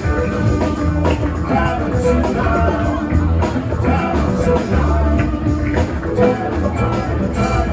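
Live rock band playing: electric guitar, bass and drum kit, with a possible vocal line.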